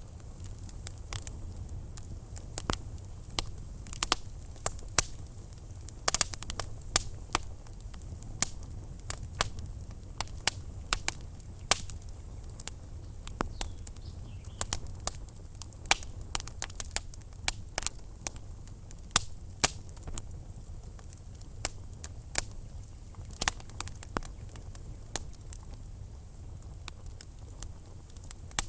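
Fireplace wood fire crackling, with sharp pops a few times a second at irregular intervals and varying loudness over a steady low rumble.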